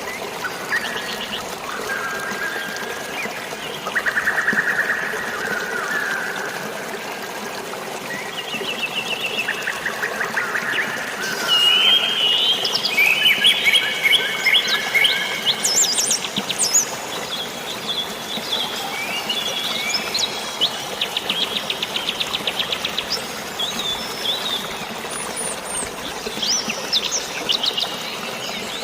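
Several birds chirping and singing, with rapid trills and short whistled calls that overlap and grow busier about halfway through, over a steady hiss of rain and flowing water.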